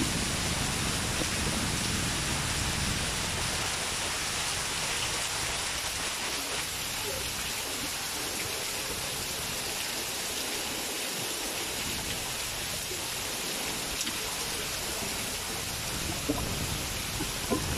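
Heavy rain pouring down: a steady, dense hiss of rain on grass, paving and a shelter roof, with runoff spilling off the roof edge. There are a few sharp taps near the end.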